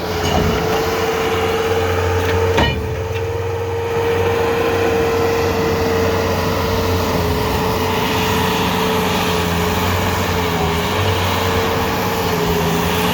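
Bobcat skid-steer loader's engine running steadily under load while moving snow, with a steady whine over a low hum, and a single sharp knock about two and a half seconds in.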